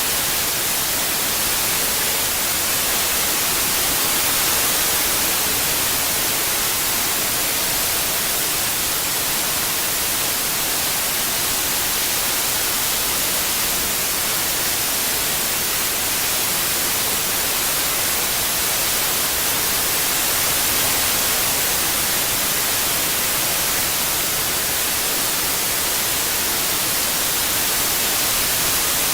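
Steady synthetic white noise: an even, unbroken hiss across the whole range, brightest in the high end, played as a tinnitus-masking sound.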